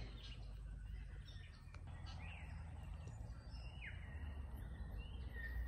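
Outdoor ambience: a steady low rumble with a few faint bird chirps, including two short sweeping calls near the middle.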